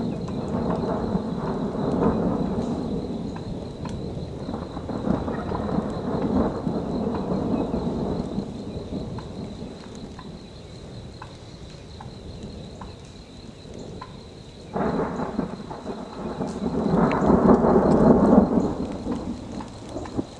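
Thunder rolling in long rumbles over steady rain. A sudden louder crack comes about fifteen seconds in and swells into another long roll.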